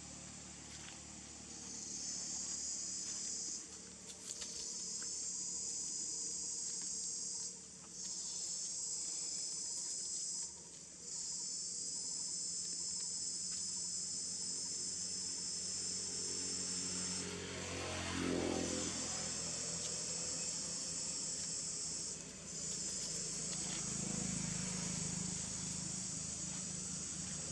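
Outdoor insect chorus: a high, steady buzzing that runs in stretches of several seconds with short breaks between them. A brief louder swell about 18 seconds in.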